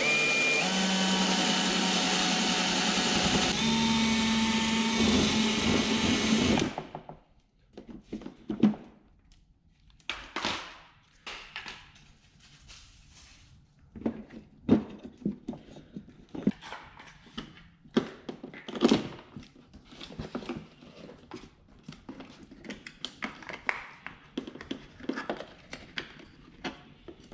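Power drill running for about seven seconds while drilling out the rivets that hold a truck's inside door handle. Its pitch steps up a few seconds in, then it stops suddenly. Scattered clicks and knocks of small parts being handled follow.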